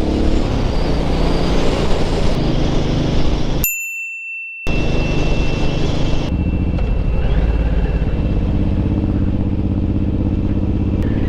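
Suzuki Boulevard M109R's big V-twin engine running at cruising speed, with wind buffeting the helmet-mounted microphone. About four seconds in, the sound cuts out for about a second, leaving a thin high steady tone. The wind noise eases from about six seconds in.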